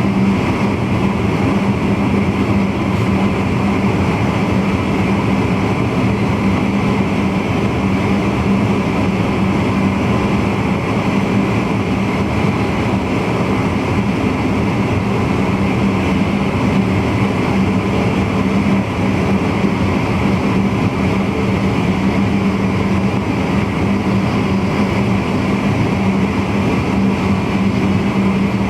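Steady running noise of a VIRM double-deck electric intercity train at speed, heard from the driver's cab. The wheels roll on the rails under a constant low hum, with no change in pace.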